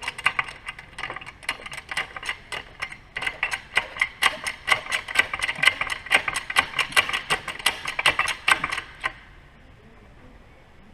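ATV jack being cranked up under a dirt bike: a fast, even run of ratcheting clicks that stops about nine seconds in.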